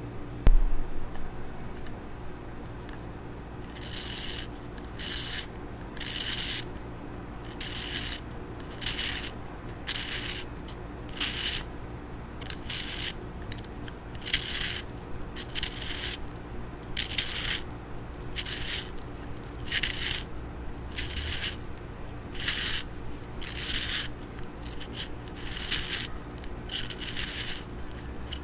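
Pencil being sharpened in a pencil sharpener: a knock about half a second in, then a steady rhythm of short rasping scrapes, a little more than one a second, as the blade shaves the pencil.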